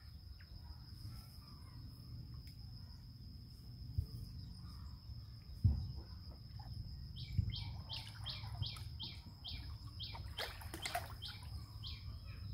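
A bird calls a run of quick falling notes, about two a second, through the second half, over a steady high whine and outdoor hum. A few low thumps come from the macaque moving in its tub of water.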